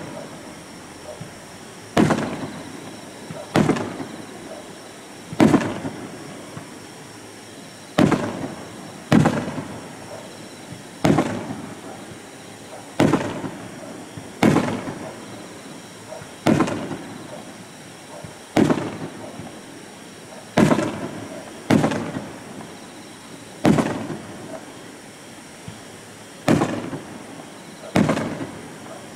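Aerial firework shells bursting in a steady sequence, about fifteen sharp bangs, one every one and a half to two seconds. Each bang is followed by a fading echo.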